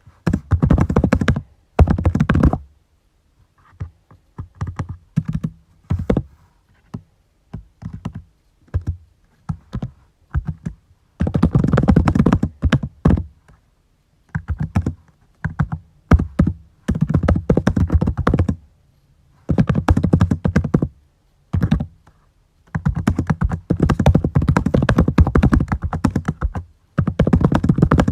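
Typing on a computer keyboard: rapid runs of key clicks in bursts of one to three seconds, broken by short pauses.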